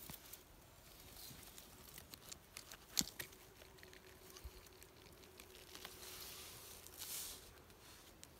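Faint rustling with scattered light clicks, and one sharper click about three seconds in.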